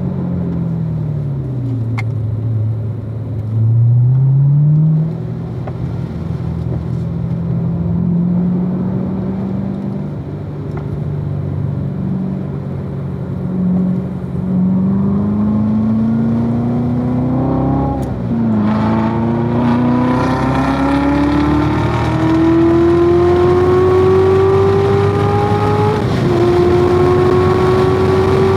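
A 2016 Corvette Z06's supercharged 6.2-litre V8 on track. The engine note drops in the first few seconds, then climbs steadily under full acceleration. It shifts up about two-thirds of the way through and again near the end, each shift a sudden drop in pitch before the next climb.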